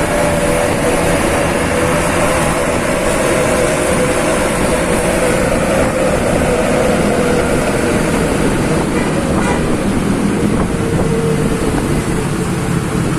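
Truck engine running through a loud aftermarket 'Serigala' exhaust: a steady engine note that drifts slowly lower in pitch, over a low rumble.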